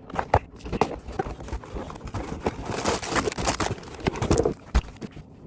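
Lego set box being handled and opened: irregular clicks and taps of cardboard with rustling, busiest around the middle.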